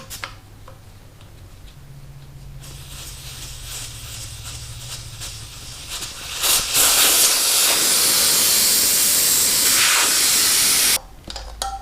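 Air hissing out of a Harley-Davidson Ultra Classic's tubed front tire through the valve stem as the tire is let down. A faint hiss builds, jumps to a loud rush about six and a half seconds in, and cuts off suddenly about a second before the end.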